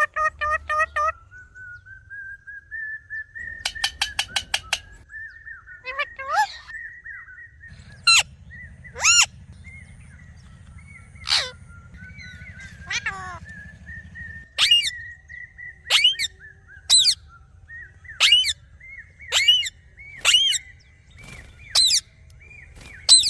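Parrot calling: a quick run of short chirps at the start, a fast trill a few seconds in, then sharp screeching calls repeated about once a second through the second half, over a faint steady whistling tone.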